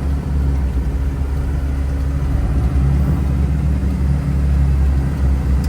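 Turbocharged 5.9 Cummins inline-six diesel of a 1976 Dodge W600 Power Wagon tow truck droning steadily while the truck is driven, heard from inside the cab.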